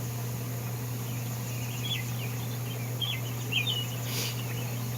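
Wild birds chirping in short, scattered warbled phrases, several times over a few seconds, above a steady low hum.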